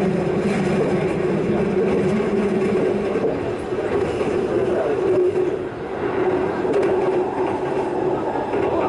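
Keihan electric train running at speed, heard from inside the car: a steady rumble of wheels on the rails with a low, even hum, dipping briefly about six seconds in.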